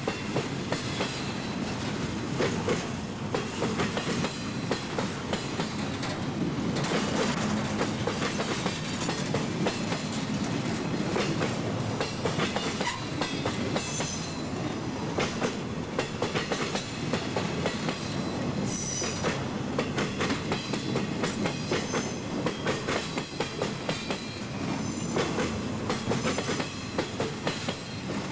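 Empty TTX flatcars of a freight train rolling past close by, wheels clacking steadily over rail joints. Brief high wheel squeals come about halfway through and again a few seconds later.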